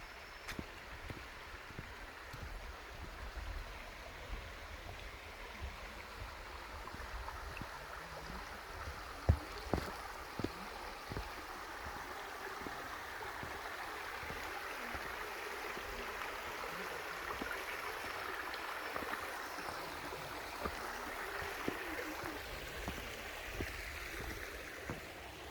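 Stream water flowing and rushing, growing louder past the middle, with a few short knocks or clicks, the sharpest about nine seconds in.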